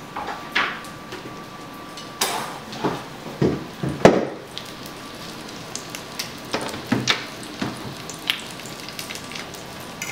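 Breaded chicken rollatini frying in hot olive oil in a stainless steel sauté pan, a steady sizzle. Over it come a series of knocks and clatters of kitchen utensils and cookware, the loudest about four seconds in.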